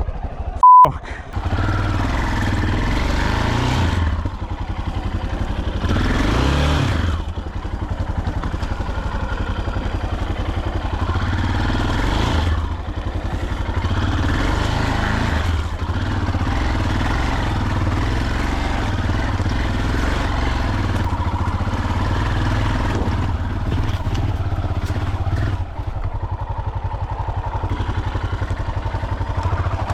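A short censor bleep about a second in, then a dirt bike engine running under varying throttle while riding over rough ground, with a rev that rises and falls several seconds in.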